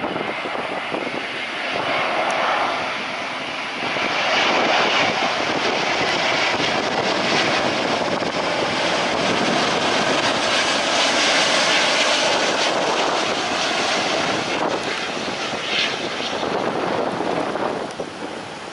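Airliner's engines as a plane passes: a loud, steady rush that builds about four seconds in, holds for several seconds, then eases toward the end.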